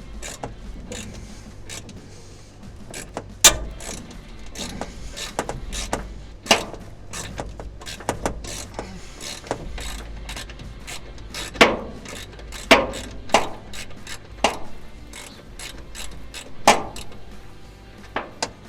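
Hand socket ratchet clicking in short, irregular runs of strokes, with several louder sharp clicks and knocks, as a bolt is worked loose.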